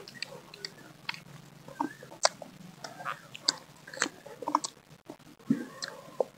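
People biting and chewing mango slices dipped in chili sauce: irregular sharp crunches and wet mouth clicks and smacks, several a second.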